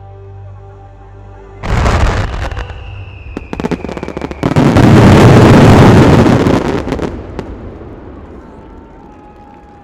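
Fireworks display: a sudden volley of shell bursts about two seconds in, with crackling and a falling whistle, building to a dense, loud barrage of explosions in the middle, then dying away. Music with held notes plays before the bursts begin.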